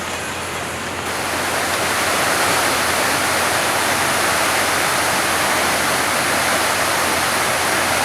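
Small waterfall on a mountain stream rushing steadily, growing louder about a second and a half in.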